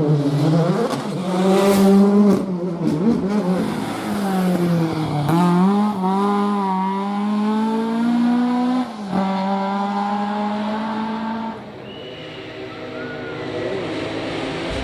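Rally car engine revving hard through the gears, its pitch climbing and dropping sharply at each gear change. The engine fades away after about twelve seconds.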